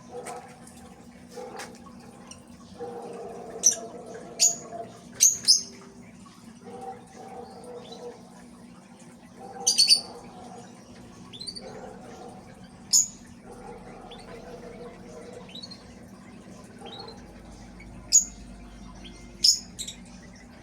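Cage birds chirping: short, sharp high chirps scattered every second or two, some in quick pairs, over a steady low hum.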